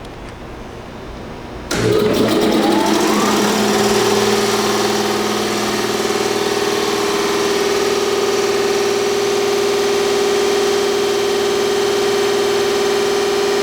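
Ingersoll Rand T30 15 hp two-stage reciprocating air compressor starting up: about two seconds in, its electric motor comes on suddenly and winds up in pitch over a couple of seconds, then the belt-driven pump runs steadily and loudly.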